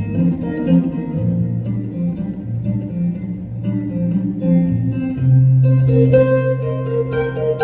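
Live band playing an instrumental break: a guitar plays over a bass line, with a low note held from about five seconds in.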